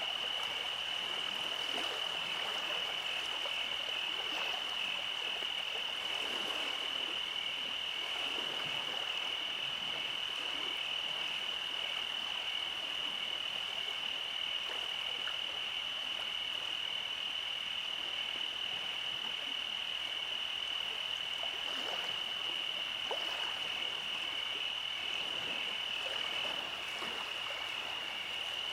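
Nighttime chorus of calling frogs: a steady high-pitched trill that never lets up, over a soft hiss.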